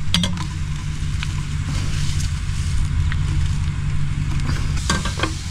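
Rain falling steadily on a car roof, an even hiss over a low steady hum, with a few light clinks just after the start and again near the end.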